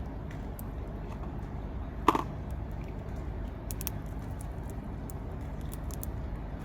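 Squirrel at a feeder: scattered faint clicks and one sharp knock about two seconds in, over a steady low rumble of distant traffic.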